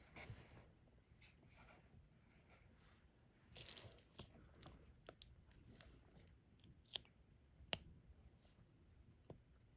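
Faint diamond painting work: a soft rustle, then scattered small clicks as a drill pen picks up resin drills and presses them onto the sticky canvas.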